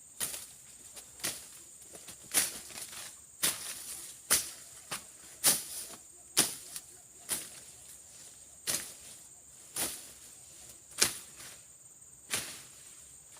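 Hand blade slashing through brush and undergrowth, one sharp swishing cut after another, about one to two a second, spacing out to about one a second in the last few seconds. A steady high insect drone runs underneath.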